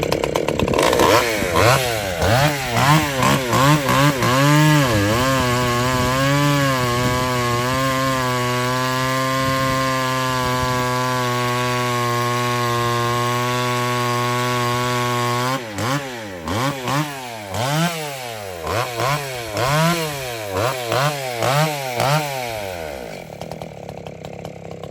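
Stihl 020 chainsaw's two-stroke engine running after being rebuilt: it is revved up and down repeatedly, held at a steady high speed for about seven seconds, then blipped again in short revs before dropping to a lower idle near the end.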